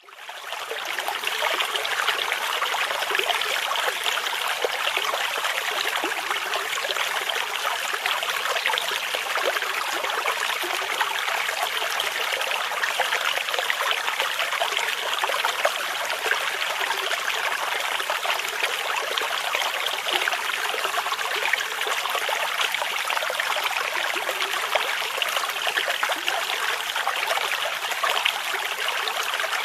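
A small stream babbling and trickling steadily over stones, fading in over the first second.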